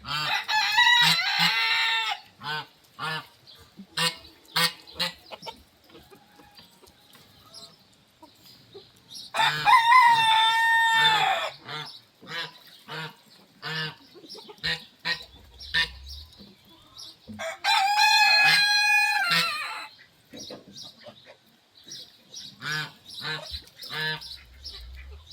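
A rooster crowing three times, each crow about two seconds long, with hens clucking between the crows.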